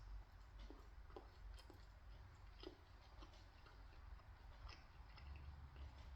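Near silence with faint, scattered soft clicks: quiet chewing of pizza, the mouth clicking now and then.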